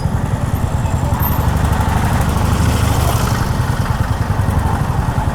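Honda H'ness CB350's air-cooled single-cylinder engine running steadily on the move, a dense low pulsing beat, with a rushing noise that swells and fades around the middle.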